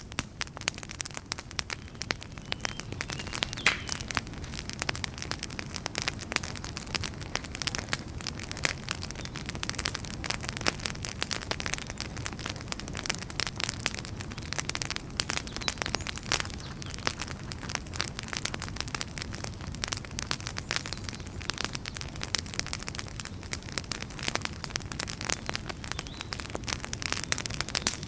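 Wood fire burning: a dense, irregular crackle of snapping pops over a steady low rumble of flames.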